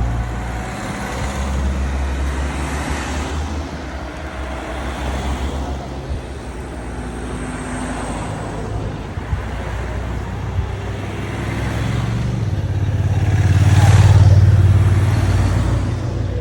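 A road vehicle passing close by: its sound swells to a peak about fourteen seconds in and then fades, over a steady low rumble.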